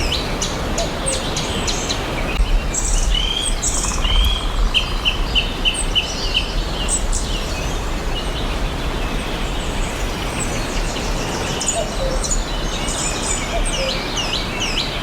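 Several forest songbirds chirping and calling over a steady background hiss. About four and a half seconds in, one bird gives a quick run of around seven short repeated notes.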